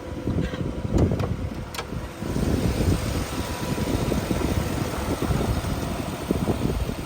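1995 Nissan Cima's 4.1-litre 32-valve V8 idling quietly on a cold start, running steadily. A few short clicks and knocks come about a second in.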